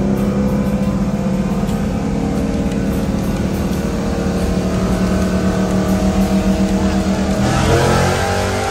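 A car engine running at steady high revs, then revving higher near the end.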